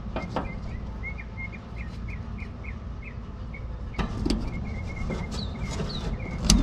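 A small bird chirping, one short note repeated about twice a second, with a few higher falling calls near the end. Several sharp knocks break in, the loudest just before the end.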